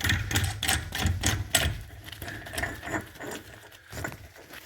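Sharp metal clicks in an irregular run, a few a second, thinning out in the second half: a screw-type axle installer tool being fitted and turned to draw the front axle shaft into the hub.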